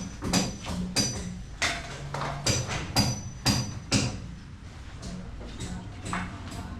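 Repeated sharp hammer strikes with a metallic ring, about two a second for the first four seconds, then softer, with faint background music underneath.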